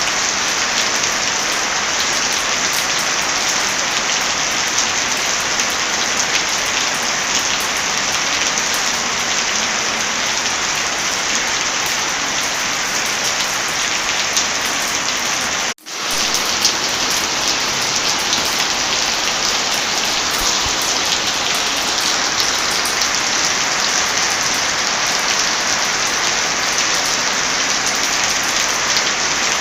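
Heavy rain falling steadily, a dense even hiss, with scattered small crackles from a fireplace. The sound drops out for an instant about halfway through, then resumes.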